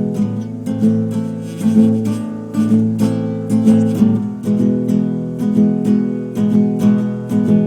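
Background music: strummed acoustic guitar playing a steady rhythm of chords.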